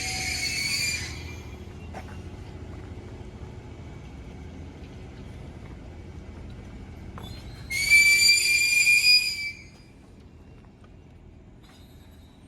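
A high, steady, shrill whistle sounds twice: the first ends about a second in, the second and louder lasts nearly two seconds near the middle. Under both runs a low steady rumble of rail-station machinery.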